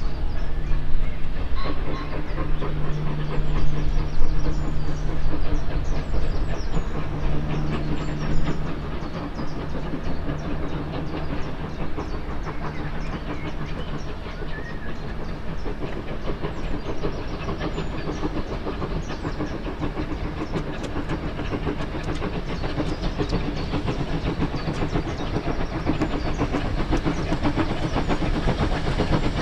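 Steam train hauled by two GWR pannier tank locomotives running on the line: a continuous clatter of wheels and rail joints mixed with steam. It is loudest for roughly the first third, then settles to a steady run.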